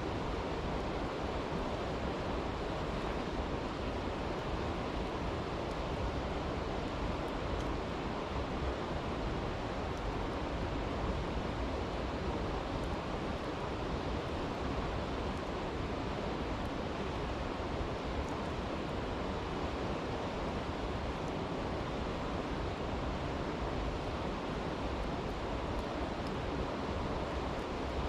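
A stream rushing steadily, with faint, scattered crackles from a campfire.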